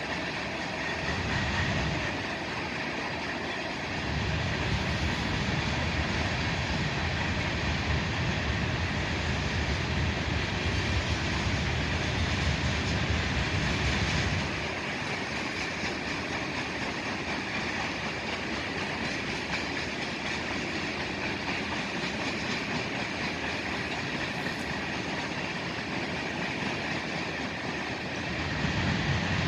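Freight train rolling past, its cars' wheels running steadily on the rails, the low rumble swelling for about ten seconds and again near the end.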